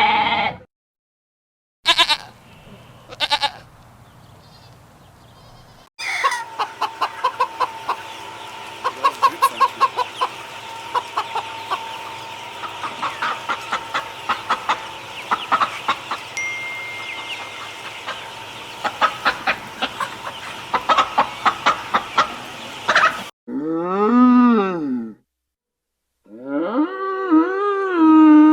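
A series of farm animal calls from different animals, one clip after another with short silent gaps: a couple of short calls, a long stretch of rapid repeated notes, then two long calls that rise and fall in pitch.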